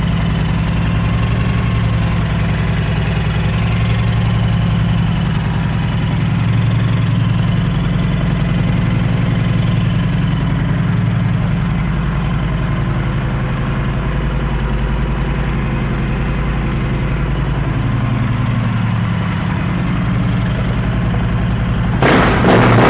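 Honda Sabre VT1300's V-twin engine with a Cobra aftermarket exhaust, idling steadily. About twenty-two seconds in it turns suddenly louder and rougher as the throttle is opened.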